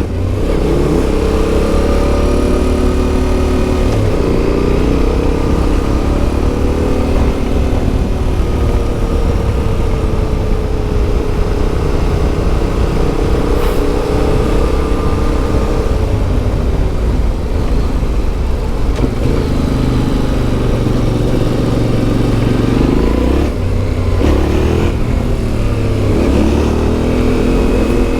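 Yamaha Ténéré 700's CP2 parallel-twin engine, fitted with an Akrapovič exhaust, under way, its pitch climbing and dropping again and again as the rider works the throttle and shifts gears.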